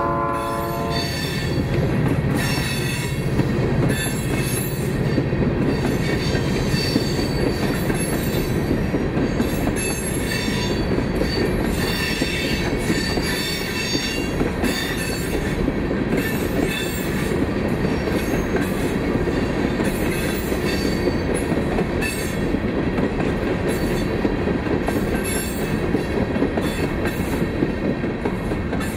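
Diesel-hauled aggregate freight train rolling past, with steel wheels squealing in high, wavering tones and clicking over the rails. A horn note cuts off about a second in.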